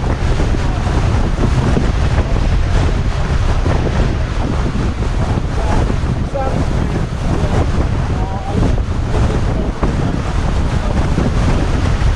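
Strong gusting mountain wind buffeting the camera microphone, a loud, steady rumble.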